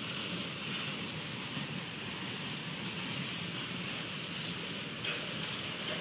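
CSX freight train's cars rolling slowly over the rails, a steady, even noise of wheels on track.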